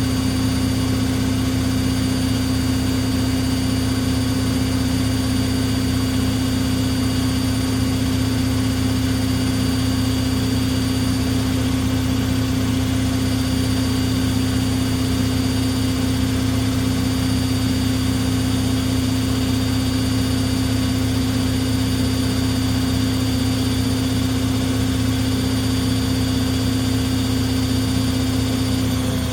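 Washing machine drum spinning at high speed in the spin cycle, a steady hum with a high whine over it; right at the end the pitch begins to fall as the drum starts to slow.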